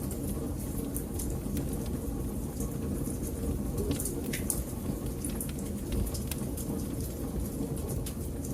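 Crackling wood fire: irregular sharp snaps and pops over a steady low rumble.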